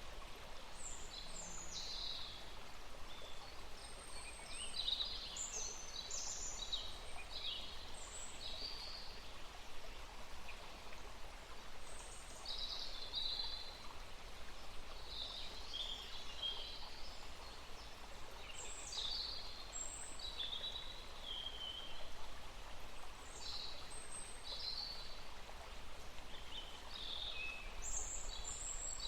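Wild songbirds singing and calling in short, high chirps and phrases, scattered through the whole stretch over a steady background hiss of outdoor ambience.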